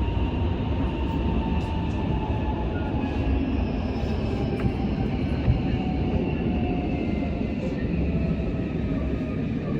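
Odakyu 1000 series renewal train running, with steady rail rumble under the inverter and traction-motor whine, which falls slowly in pitch as the train slows for the station.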